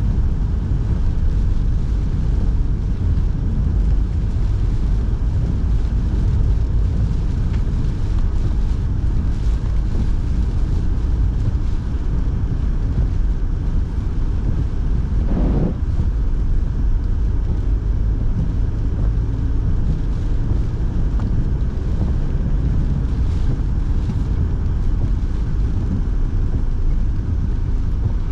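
Steady low rumble of a moving car heard from inside the cabin, road and tyre noise mixed with the heater fan blowing. A brief swell of noise about halfway through.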